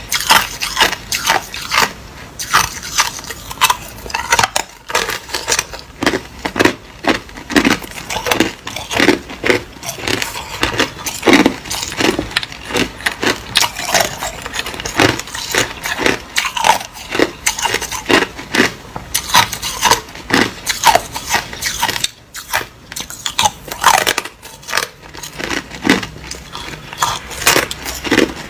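Close-up sound of hard ice being bitten and chewed: dense, irregular cracking and crunching, several crunches a second.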